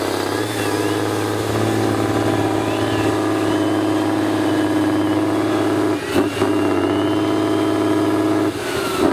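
Competition trial truck's diesel engine running at a steady pitch, with a brief dip and a sharp knock about six seconds in.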